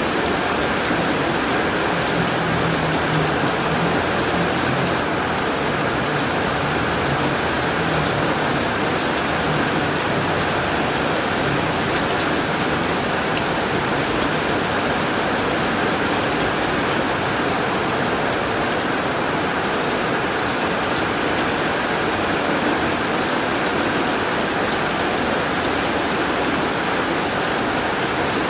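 Heavy rain falling steadily on a tin roof, a dense, even patter of drops.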